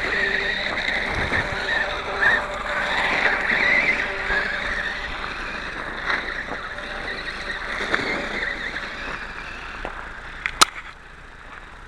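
A radio-controlled motorcycle's motor whining and its tyres on the ground as it is ridden slowly, the whine wavering up and down with the throttle. There is one sharp click about ten and a half seconds in, and the sound drops away just after.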